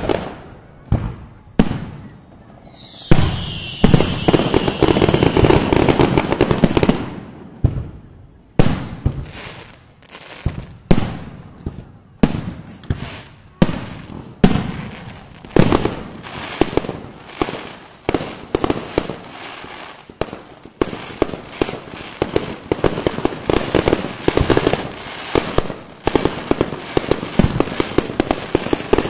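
Aerial fireworks shells bursting overhead in quick succession, a long run of sharp bangs with a dense stretch of bangs and crackle from about three to seven seconds in.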